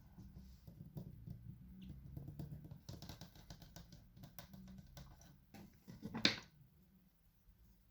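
Knife cutting into a bar of soap: a run of short, crisp crackles, with one louder cut about six seconds in, then quieter.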